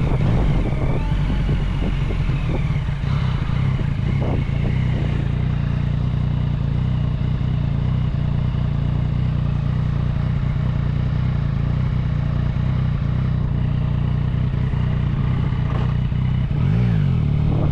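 Yamaha Tracer 900's three-cylinder engine, fitted with an Arrow aftermarket exhaust, running steadily under way. Near the end the revs drop and then climb again.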